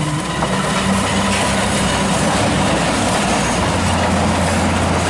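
Passenger train passing close by: a loud, steady rumble of wheels on the rails with a low drone underneath.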